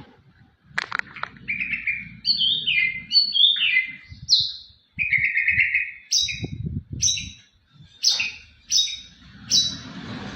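White-rumped shama singing: a run of varied whistled phrases, many sliding down in pitch, then from about six seconds in a string of short, sharp repeated notes, one or two a second.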